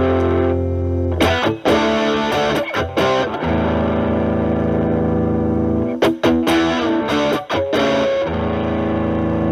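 Electric guitar, a Stratocaster with single-coil pickups, through a Proco RAT2 distortion set at 2 o'clock stacked with an Ibanez TS9 Tube Screamer, into a Marshall Valvestate amp. The guitar's volume knob is rolled back so the heavy distortion cleans up to a lighter crunch. Chords are struck and left to ring, with a few quicker strums in the first three seconds and again around six seconds in.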